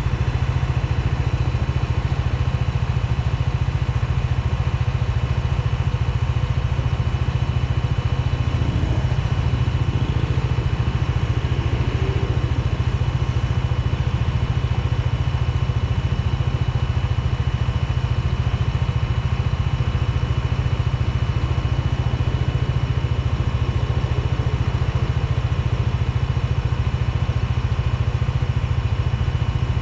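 Bajaj Dominar 400 motorcycle idling with its radiator cooling fan running, a steady whine over the engine's even low running. The fan is very loud, described as an infernal sound; the dealer calls it normal, and a mechanic suggests a different maker's fan fitted to this bike.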